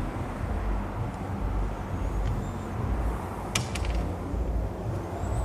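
Steady low rumble with a quick cluster of sharp clicks about three and a half seconds in.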